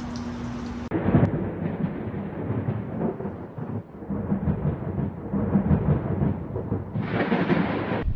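Thunder in a storm: a loud crash about a second in, then uneven low rumbling, with a brighter, hissier stretch near the end.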